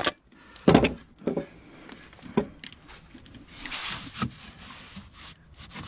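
A few scattered knocks and clacks, the loudest about a second in, with a short scraping rustle near the middle: fibre-cement artificial slates being handled and picked out for nailing.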